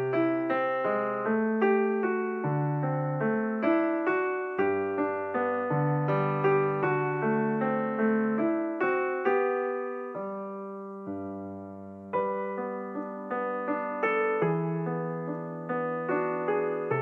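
Background piano music: a steady flow of struck notes over bass notes, easing into a held chord that fades about ten seconds in before the playing picks up again.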